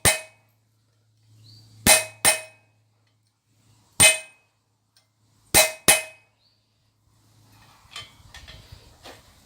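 Steel hammer striking steel on an anvil: five sharp, ringing blows, mostly in pairs, followed near the end by lighter metal clinks and clatter.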